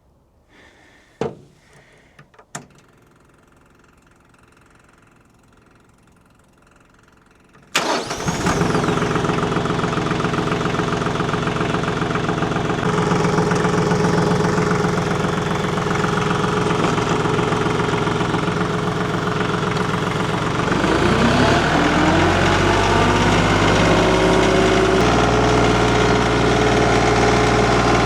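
Two sharp clicks, then about eight seconds in a compact tractor's engine cranks, catches and runs steadily. About 21 seconds in the engine speed rises and holds at a higher, steady speed.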